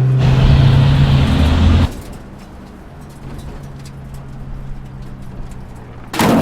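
Car engine sound effect: a loud engine running hard for about two seconds, then cutting abruptly to a quieter, steady engine hum. A sudden loud crash comes in near the end.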